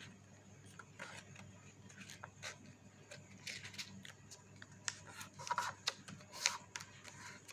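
Faint, scattered rustles and crinkles of coloured chart paper being folded and creased by hand.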